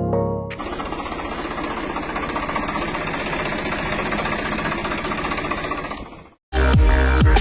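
A mini tractor's small engine running steadily with a fast, even knocking pulse, cut off about six seconds in. Electronic music with a heavy beat starts near the end.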